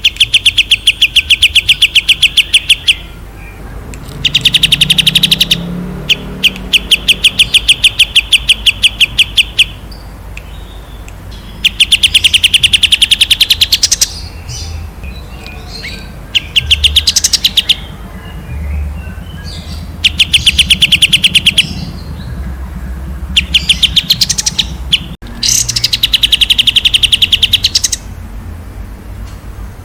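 Songbird song: about eight loud bursts of rapid, evenly repeated high chirps, each lasting one to three seconds, with short pauses between them.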